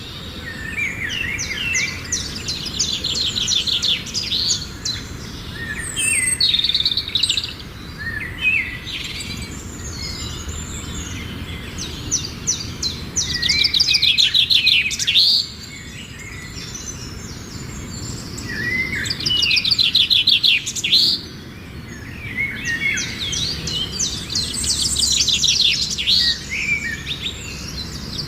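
Birdsong: phrases of fast, high trills a few seconds long, repeating every five or six seconds, with short chirps in between.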